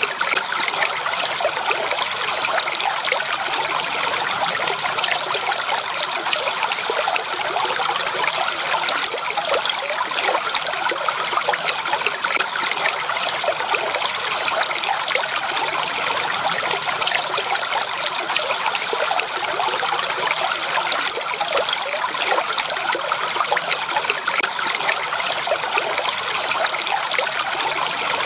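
Stream water trickling and babbling steadily, a dense, unbroken patter of small splashes.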